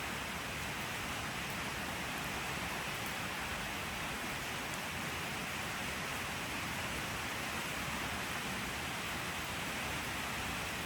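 Steady, even rain falling, a continuous hiss without single drops standing out or any change in level.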